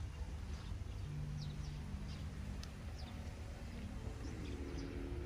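Birds chirping, a scatter of short, high, falling chirps over a steady low rumble. A low hum starts about four seconds in, rises slightly in pitch and then holds steady.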